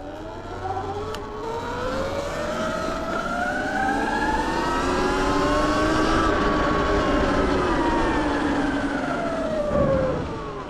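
Sur-Ron electric dirt bike's motor whining, its pitch climbing steadily for about six seconds as it speeds up, then falling as it slows, over a low rushing noise.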